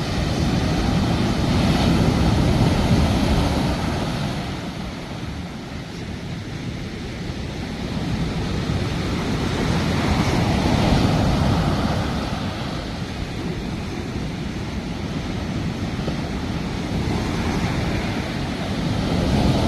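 Sea waves washing onto the shore, a steady rushing noise that swells twice, some eight seconds apart, and then eases, with wind on the microphone.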